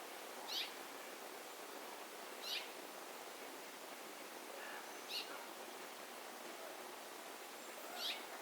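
A bird at a feeder giving four short, high calls a couple of seconds apart, over a steady background hiss.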